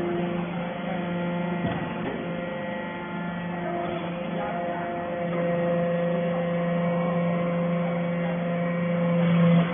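Steel shaving baler's hydraulic pump and motor running with a steady hum. A click comes a couple of seconds in. The hum grows louder from about halfway and cuts off sharply near the end.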